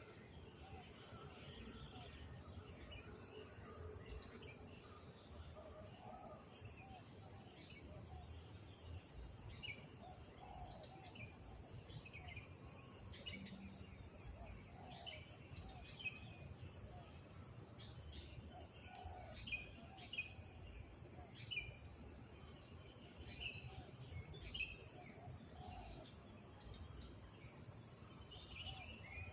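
Rural morning ambience: a steady high insect trill under repeated short bird chirps, which grow busier partway through. Lower calls recur every couple of seconds.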